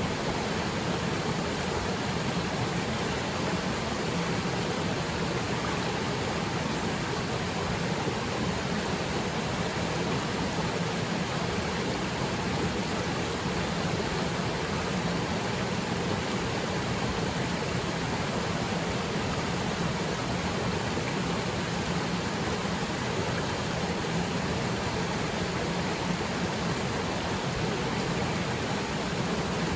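Steady rushing of a small waterfall pouring into its pool, with rain falling on the water.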